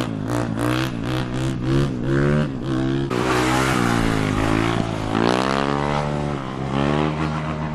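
Motorcycle engine revving hard, its pitch climbing and dropping back about four times in quick succession, then making two longer climbs.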